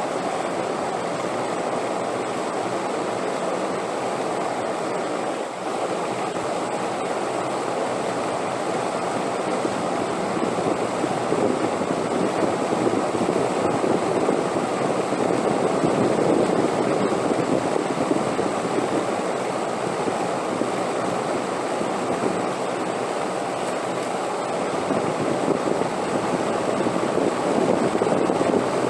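Steady rushing wind, swelling a little louder around the middle and again near the end.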